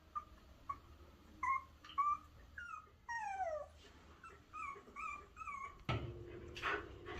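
Australian Shepherd puppies whimpering in a run of short, high-pitched whines, with one longer falling whine about three seconds in. Near the end a louder rustling noise comes in.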